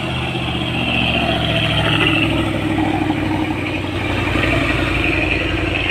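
Truck engine running steadily under load, with road noise.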